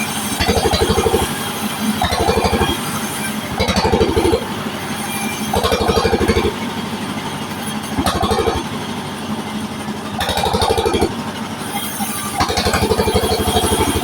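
Engine-driven band sawmill running and cutting waru wood. Under the steady, fast pulsing of the engine, a higher tone swells for about a second at a time, recurring every second and a half to two seconds as the blade works through the wood.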